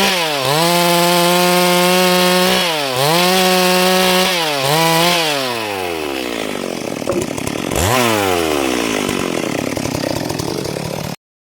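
Stihl MS 382 two-stroke chainsaw at full throttle, cutting wood, its revs dipping and recovering three times. About five seconds in it drops back to idle, is blipped up once near eight seconds, then idles until the sound cuts off abruptly.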